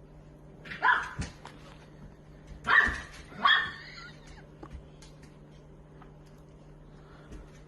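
A dog barking three times: one bark about a second in, then two more in quick succession around three seconds in.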